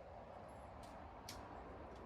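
Quiet outdoor background with two faint, sharp clicks, about a second in and again half a second later.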